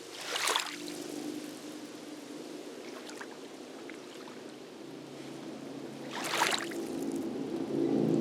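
Small waves of lake water lapping and splashing against the shore, twice: once about half a second in and again near six and a half seconds. A low, faint, steady hum runs underneath.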